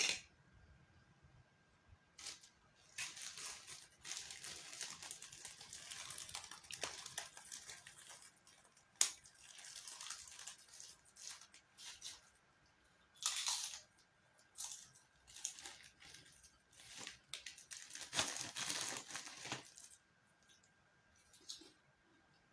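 Plastic food packaging being crinkled and torn open in irregular rustling bursts, with a single sharp click about nine seconds in.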